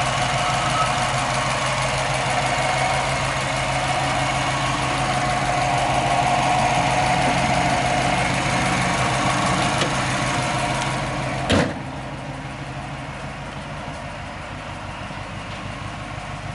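Subaru Forester STi's turbocharged EJ25 flat-four engine idling steadily. About eleven and a half seconds in, a sharp thump, the hood being shut, after which the idle is quieter and muffled.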